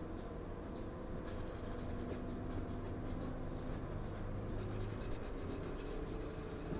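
Cabin of a moving Kenya Railways diesel multiple-unit train: a steady low engine and running drone, with a light, regular ticking about twice a second.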